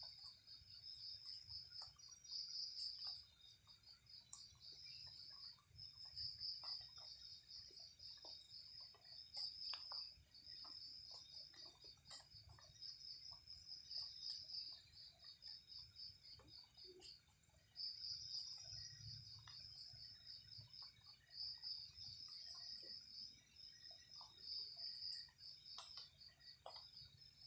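Crickets chirring faintly in high, pulsed trills that run in long stretches with brief pauses, with scattered faint ticks and rustles.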